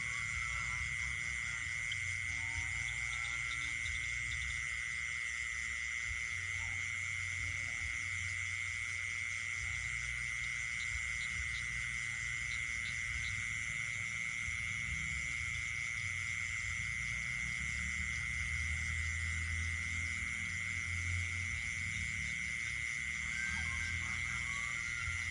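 Night chorus of frogs and insects: a steady, unbroken high trill with a fainter pulsing buzz above it, over a low rumble.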